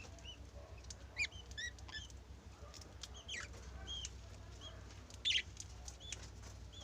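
Pet budgies and lovebirds chirping softly: short, faint chirps every half second or so, with a few louder calls about a second in and again about five seconds in.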